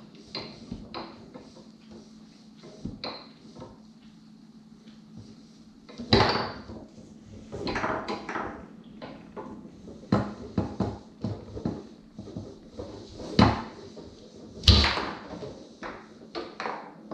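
A point of foosball played on a Tornado table: the ball clacks against the players' figures and the table walls in quick runs of sharp knocks, with a quieter spell early on and several hard hits, the loudest about three seconds before the end.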